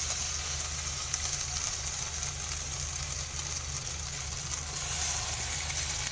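Marinated chicken pieces sizzling in a hot black pan: a steady, even high hiss, with a low steady hum underneath.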